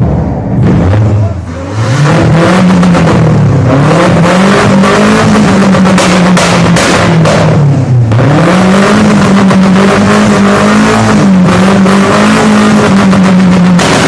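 Car engine revved hard through a Warex aftermarket exhaust. The revs climb and hold high, drop sharply about eight seconds in, then climb and hold again, with crackling pops from the exhaust as it spits flames.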